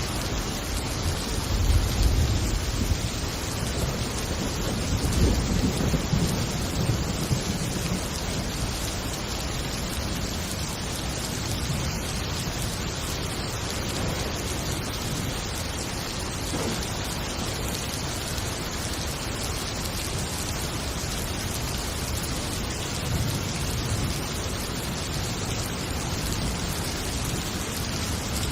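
Thunderstorm: steady heavy rain with rolling thunder rumbles, strongest about two and about five seconds in, and a fainter rumble near the end.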